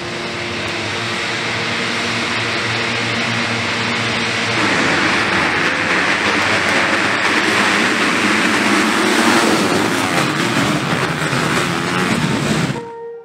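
Motocross bike engines running on the track: a steady, pitched engine note under a loud roar. The roar grows louder about four and a half seconds in, then cuts off abruptly near the end.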